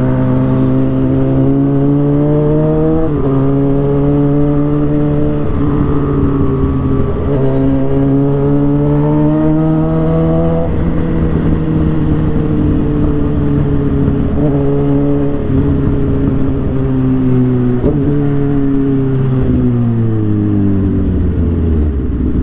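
Suzuki GSX-R 750 inline-four running through an aftermarket exhaust while ridden. It pulls up through the revs with upshifts about three seconds in, about six seconds in and near the middle, then the revs sink slowly and drop as it slows near the end.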